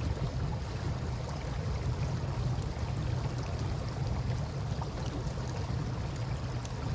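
Steady low rushing of river water with a campfire burning beside it, a few faint crackles over the water's rush.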